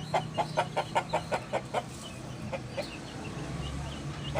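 A bird calling in a fast, even run of short clucking notes, about five a second, that breaks off about two seconds in; a few scattered short higher chirps follow.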